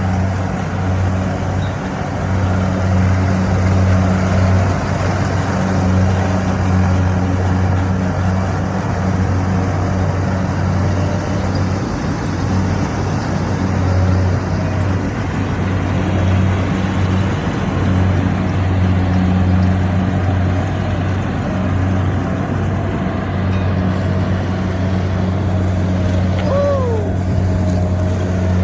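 Kubota combine harvester's diesel engine and machinery running steadily under load while harvesting rice in mud, a constant low hum.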